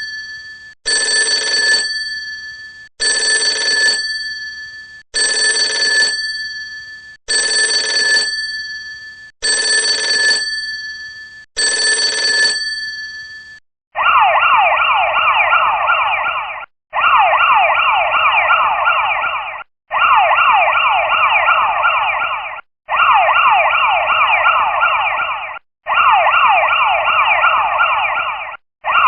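School bell sound effects. First a bell rings six times, about every two seconds, each ring starting sharply and fading away. About halfway through, a harsher, continuous electric ringing takes over in bursts of nearly three seconds with short breaks between them.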